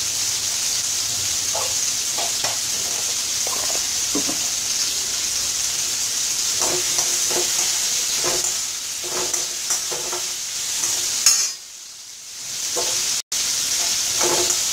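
Diced yellow pumpkin sizzling in hot oil in a stainless-steel kadai, stirred and scraped with a metal spoon, the spoon clinking against the pan. The sizzle drops away for a moment about three-quarters of the way through.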